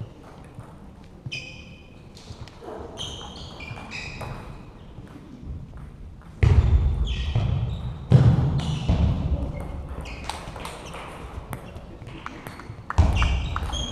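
Table tennis ball clicking again and again off bats and table in a large hall, with voices in the background. Three loud, low, dull thuds come in about halfway through, shortly after, and near the end.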